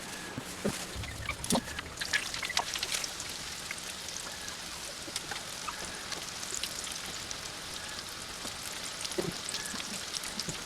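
Breaded chicken cordon bleu frying in a pan of oil: a steady sizzle with scattered pops and crackles, busiest in the first few seconds.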